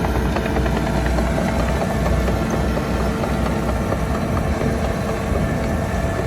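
Heavy earthmoving machinery: the diesel engine of a bulldozer or dump truck running steadily under work, a loud, unbroken drone.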